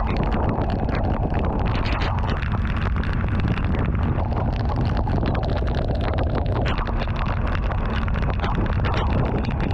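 Steady noise of a vehicle travelling in rain: a low road rumble and wind on the microphone, with a dense scatter of small raindrop ticks throughout.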